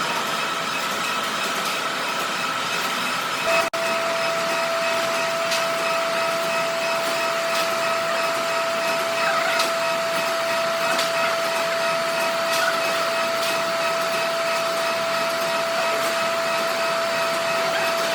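A workshop machine running steadily, with a brief dropout about three and a half seconds in, after which a steady high whine joins the running noise.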